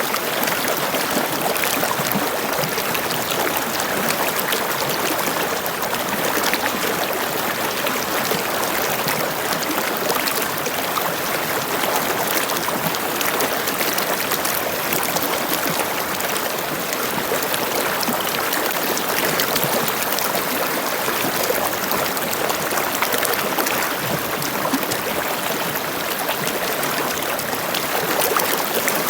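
Flowing water running steadily, an even rushing and splashing with no let-up.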